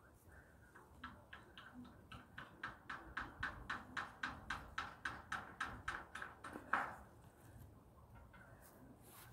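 A bird calling in a rapid series of about twenty short notes, about four a second, growing louder and ending in one louder, drawn-out call.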